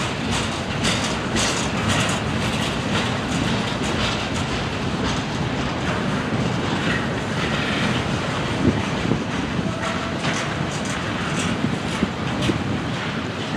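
Freight train's open-top cars rolling past, steel wheels clicking over the rail joints over a steady rumble, with a couple of sharper knocks about nine seconds in.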